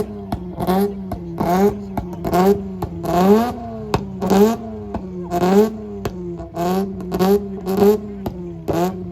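A tuned car engine revved and held at high revs, its pitch jumping up roughly once a second, with a sharp crackle or bang from the exhaust on each rise.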